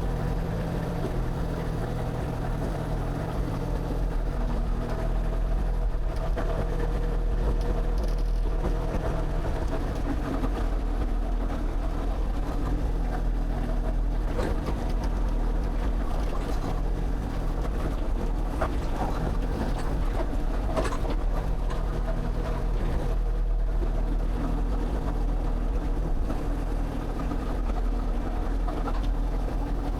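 Excavator's diesel engine running steadily, with a few short clicks and knocks over it.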